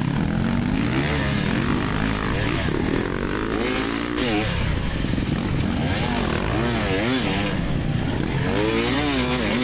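2024 GasGas EX300's 300cc two-stroke engine revving up and down over and over as the throttle is worked on and off through the course.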